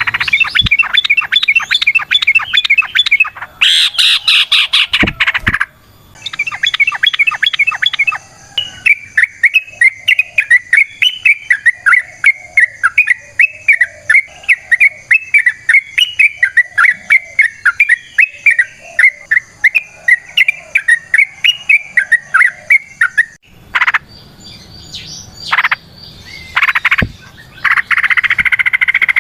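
Yellow-vented bulbul (trucukan) singing its rapid chattering 'ropel' song: fast runs of short notes, with one long unbroken run in the middle lasting about fifteen seconds.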